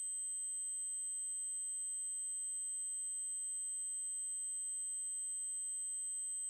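Continuous 8192 Hz triangle-wave test tone: a single steady, high-pitched electronic tone that holds unchanged in pitch and loudness.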